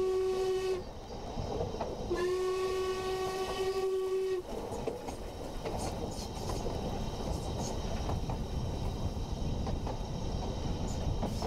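Train whistle blowing: a long blast that stops under a second in, then a second blast of about two seconds, its pitch rising slightly as it starts. After that comes the steady rumble of a train running on the track, with a few faint clicks.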